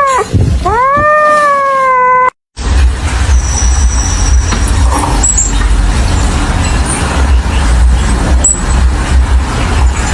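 A cat's long, drawn-out meow that rises and then falls in pitch, cut off abruptly about two seconds in. After a short break, a steady low rumbling noise runs on.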